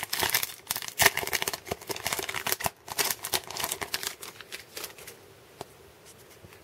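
A 2017 Topps Series 1 baseball card pack being torn open, its wrapper crinkling and tearing, and the cards inside being handled and shuffled. The rustling dies down about five seconds in.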